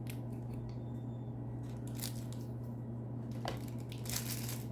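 A pen and its packaging being handled: a few soft rustles and light clicks, the loudest of them near the end, over a steady low hum.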